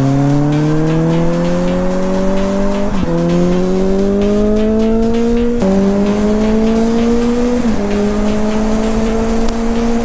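Suzuki GSR750's inline-four engine through a Yoshimura aftermarket exhaust, pulling through the gears under acceleration. The engine note rises steadily, then drops sharply at each upshift, about three times.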